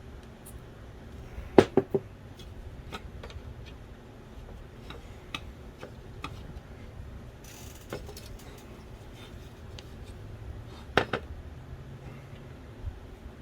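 Small hard parts of a Philips DVD drive clicking and tapping as it is taken apart by hand: a quick run of three clicks about one and a half seconds in, scattered lighter ticks, a brief scrape near the middle, and another pair of clicks near eleven seconds.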